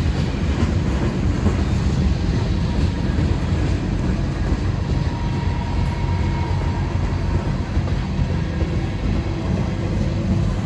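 Freight train cars rolling past at close range: a steady, loud rumble of wheels on rail.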